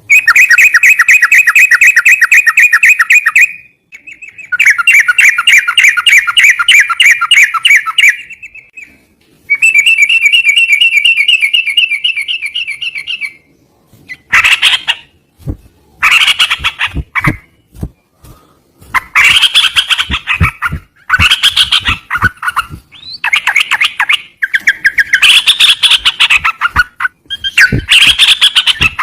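A songbird known in Indonesian as cerucokan singing: three long, rapid chattering trills, then from about halfway a run of harsher, squawking phrases in short bouts, with sharp knocks among them.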